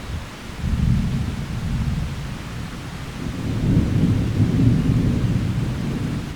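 Thunder rumbling in two long swells, a deep roll starting about half a second in and a louder one from about halfway, over the steady hiss of rain.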